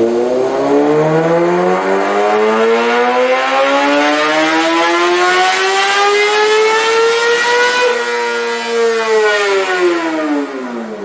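Kawasaki ZX-6R's inline-four, fitted with an M4 exhaust with the baffle out, on a wide-open-throttle dyno pull. The revs climb smoothly in one gear for about eight seconds, then the throttle closes and they fall away.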